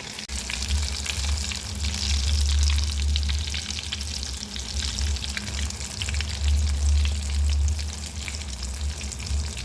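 Potato-and-egg balls deep-frying in hot oil: a steady crackling sizzle with a steady low hum underneath.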